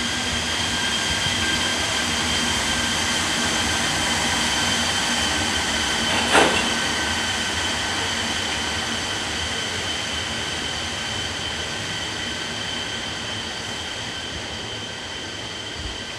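A train running on the rails, with a steady high whine of several tones over the running noise and one sharp clank about six seconds in; the sound slowly fades over the second half.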